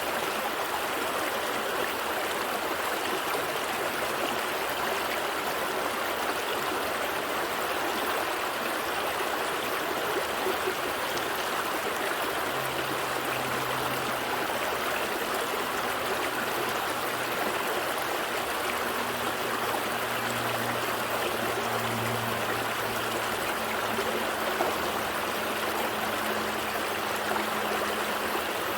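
Small stream flowing and trickling steadily over rocks. About halfway through, a faint low hum, like a distant motor, joins in underneath.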